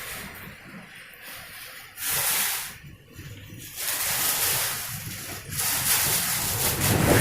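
Storm wind gusting hard with wind-driven rain hissing, in swells that rise and fall and build toward the end.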